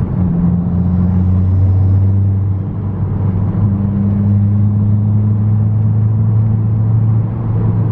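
Car engine running hard under load, heard from inside the cabin during a timed run: a steady drone that dips briefly about two and a half seconds in, then settles at a slightly higher pitch.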